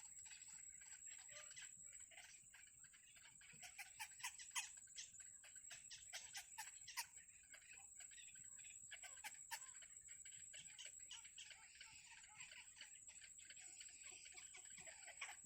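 Faint cheeping and clicking of baby birds, in short irregular clusters, over a steady high-pitched tone.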